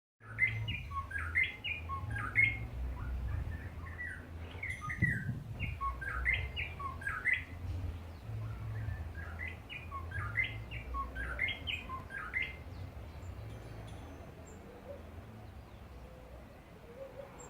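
A bird singing in three bouts of quick, short whistled notes, each bout a few seconds long, over a low rumble; the song fades out after about thirteen seconds.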